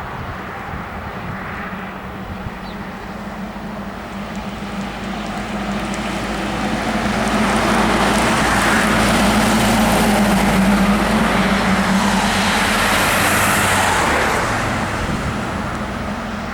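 Front-lift garbage truck driving past: its diesel engine holds a steady note, grows louder over several seconds, is loudest in the middle, then fades as it moves away.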